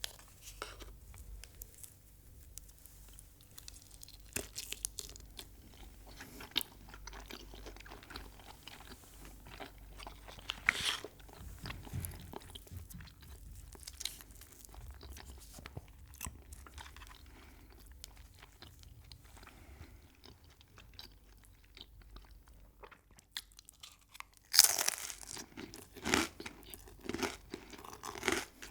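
Close-miked chewing of crunchy food, with soft scattered crunches and mouth clicks, then a run of louder crunchy bites near the end.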